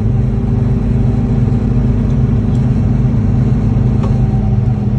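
Steady engine and tyre drone of a car travelling along a highway, heard from inside the cabin.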